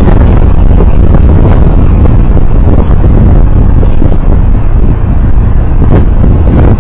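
Vehicle on the move: a loud, steady low rumble of wind and road noise on the recorder's microphone.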